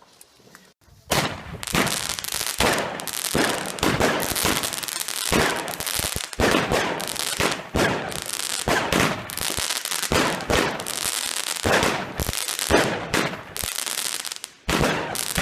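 Fireworks going off: a rapid, continuous string of bangs and crackles that starts about a second in and keeps going without a break.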